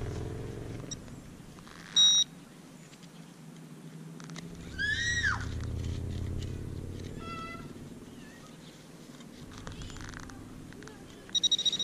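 Handheld metal-detecting pinpointer giving a short high beep about two seconds in, then rapid pulsing beeps near the end as it nears a target in the dig hole. In between comes a single meow-like rising-and-falling call.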